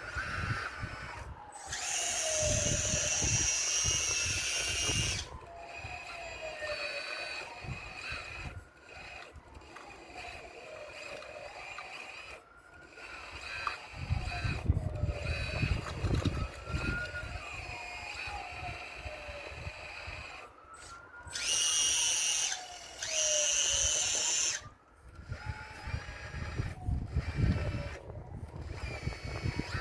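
RC Caterpillar excavator model working, its motors whining and repeatedly rising and falling in pitch. Two louder stretches of high whine come about two seconds in and again past twenty seconds. Stones scrape and knock in between.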